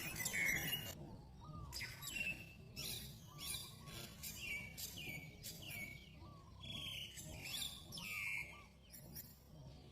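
A bird chirping repeatedly: short, falling calls, about two a second.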